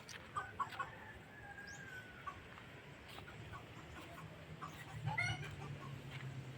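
Birds calling: a few short calls, then a longer drawn-out call, and a quick run of calls about five seconds in. A low steady hum sets in partway through.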